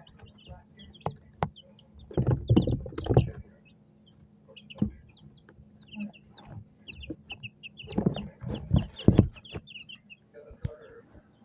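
Pet birds cheeping in quick, short high chirps throughout, with bursts of louder, lower calls about two seconds in and again around eight to nine seconds.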